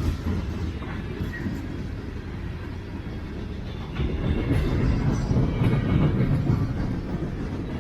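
Freight train rolling past on the main line: a steady low rumble of the cars with scattered wheel clicks, getting louder about halfway through and easing near the end.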